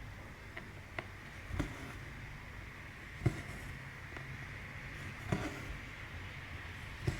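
Hand cross-stitching on 14-count fabric: irregular soft taps and pops every second or two as the needle goes through the cloth and the thread is drawn through, over a steady low hum.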